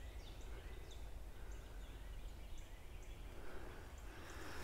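Small birds calling: a run of short, high, down-slurred chirps, about two a second, over a steady low rumble.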